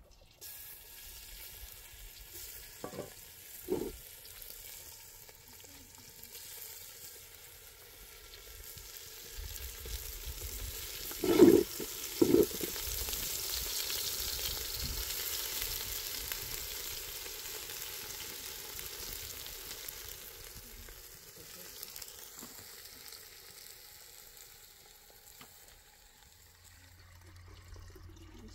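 Food sizzling in a hot pan: a steady hiss that swells about a third of the way in and fades near the end. Two sharp knocks about halfway through are the loudest sounds, with fainter knocks early on.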